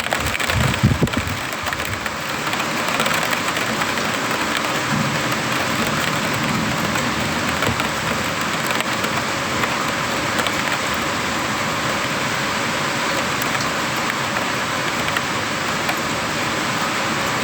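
Heavy rain falling steadily during a thunderstorm, with a short low rumble of thunder about a second in.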